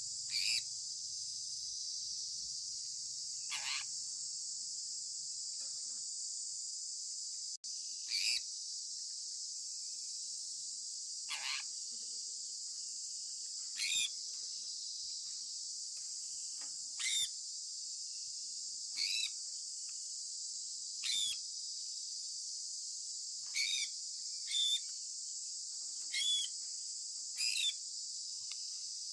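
Sun conure giving short, sharp chirps every one to three seconds, each one falling quickly in pitch. Behind them runs a steady high-pitched hiss like insects.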